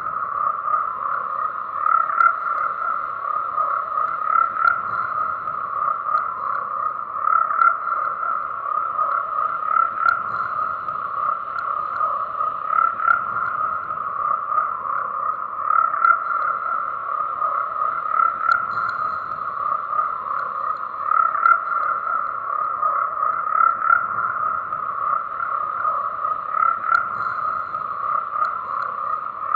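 Dense chorus of frogs croaking without a break, a steady high-pitched calling band that swells a little every two to three seconds.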